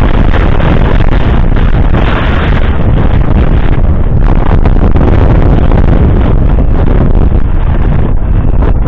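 Fendt 724 Vario tractor's 6.1-litre six-cylinder diesel running loud and steady at work in the field, mixed with heavy wind noise on the microphone.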